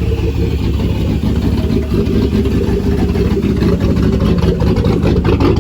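Pickup truck engine running steadily through a straight-piped exhaust with no catalytic converters, loud and low-pitched.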